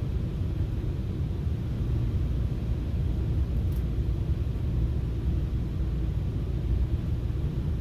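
Steady low rumble of a FrontRunner commuter train running between stations, heard from inside the passenger coach.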